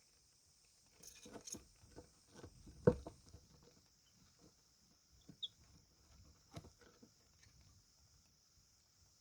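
Baby chicks pecking and scratching: soft, irregular taps and scuffs, busiest in the second and third seconds with one sharper knock about three seconds in. A single short peep comes a little over five seconds in.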